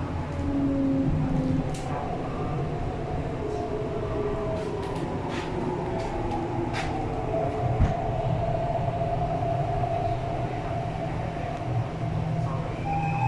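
An MTR East Rail line R-Train electric multiple unit heard from inside while it runs along the track. There is a steady low rumble under a motor hum that drifts in pitch, with scattered sharp clicks and one louder knock about eight seconds in.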